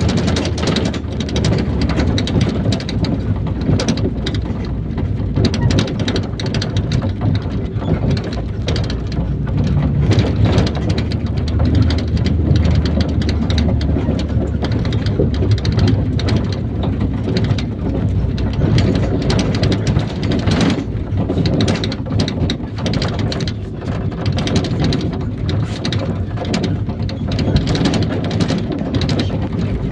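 Inside an IVECO Daily 50-140 minibus on the move: steady engine and road rumble with constant rattling and knocks from the body.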